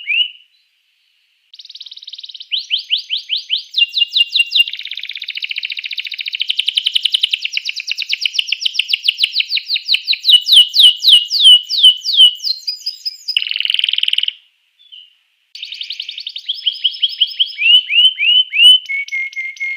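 Domestic canary singing long runs of fast repeated chirps and rolling trills. The song stops briefly twice, near the start and about three-quarters of the way in.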